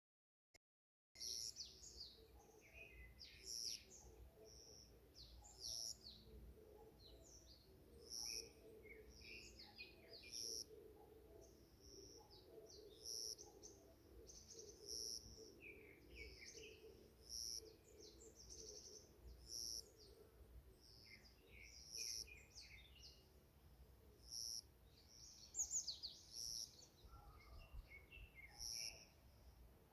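Faint birdsong from several birds, starting about a second in. One bird repeats a short high note roughly every two seconds while others add quick chirping phrases, over a low steady background hum.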